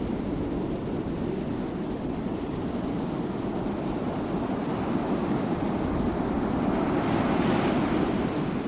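Sea waves washing onto the shore as a continuous surf hiss, with a wave swelling louder about seven seconds in.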